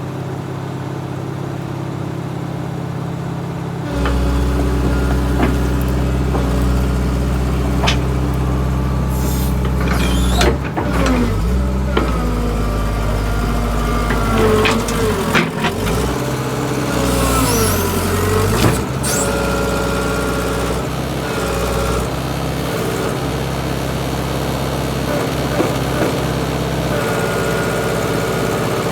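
Excavator diesel engine running steadily, getting louder about four seconds in as the machine works. In the middle there are whining and squealing tones that rise and fall, with a few sharp metallic knocks, as the thrown track is worked back onto the undercarriage.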